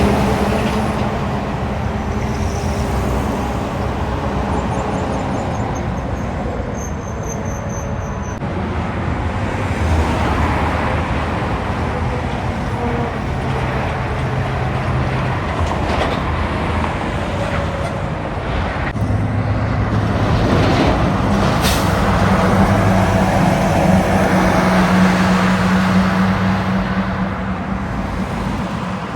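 Heavy diesel semi-trucks driving past with steady traffic noise, their engines swelling louder twice as trucks go by.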